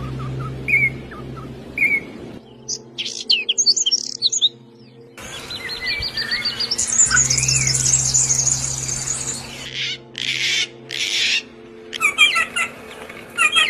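Several songbirds chirping and calling in quick, repeated phrases, with some harsher squawks. The recording changes abruptly several times, as if different bird clips were spliced together.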